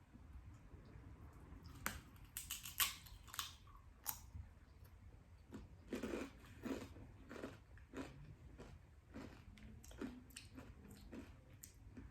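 Potato chips being bitten and chewed: a run of crisp crunches in the first few seconds, then steady chewing at about two chews a second.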